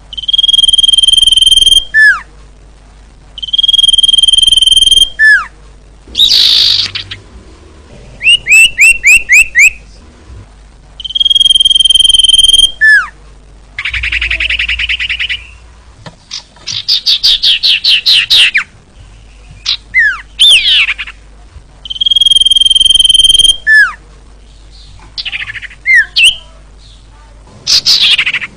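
Female common iora (cipoh) calling: a long, steady whistled note that ends in a sharp downward slur, given four times, between quick runs of rapid trilled notes and buzzy chirps.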